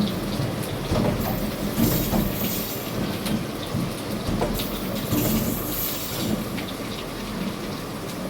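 Train running on the rails: a steady rumble with wheels clicking and clattering over the track.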